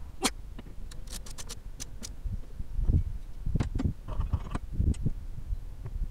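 Scattered sharp metallic clicks and low knocks of hand work on a car's windscreen wiper arms as they are fitted onto their spindles.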